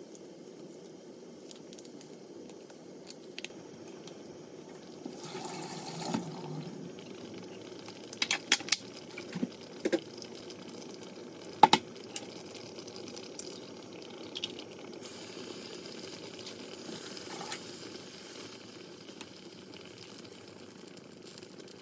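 Liquid bubbling on the stove, with a few sharp clinks and knocks of kitchenware in the middle, the loudest about halfway through.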